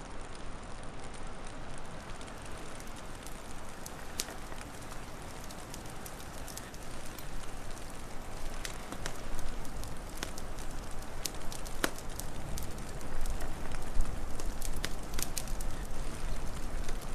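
Wood fire crackling, with scattered sharp pops and snaps over a steady rushing background that grows louder past the middle.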